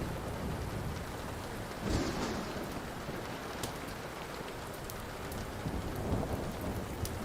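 Steady rain with a low rumble of thunder that swells about two seconds in and again near the end, over scattered sharp pops and crackles of a burning wood fire.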